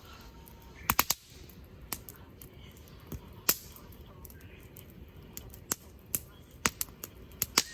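Firewood burning in a campfire, crackling with sharp, irregular pops; a quick cluster of three pops comes about a second in and several more toward the end.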